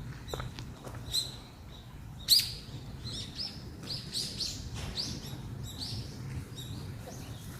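Small songbirds chirping: a busy run of short, high, quickly falling calls, loudest about two and a half seconds in, over a low steady background rumble.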